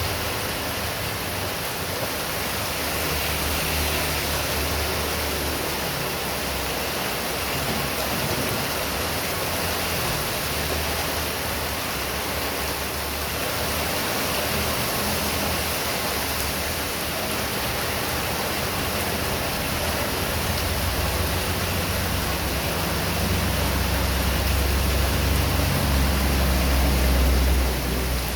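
Heavy rain falling steadily, a dense even hiss, with a low uneven rumble of strong wind underneath that swells over the last few seconds and drops off sharply near the end.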